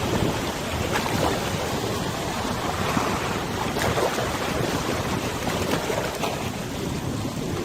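River water lapping and splashing in a steady, uneven rush, with wind buffeting the microphone.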